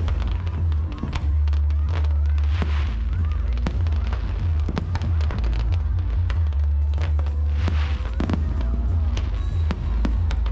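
Fireworks display: repeated sharp bangs and crackles of aerial shells bursting, over loud accompanying music with a heavy bass.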